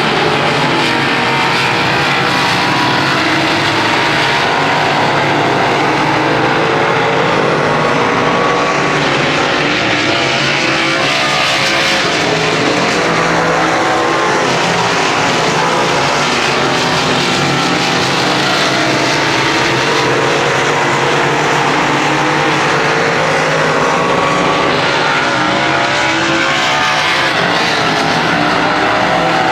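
Several racing engines running hard together without a break, their pitches rising and falling as the field laps.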